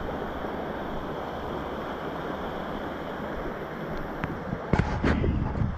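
Steady rush of flowing river water. Near the end a brief cluster of louder knocks and rustles cuts in over it.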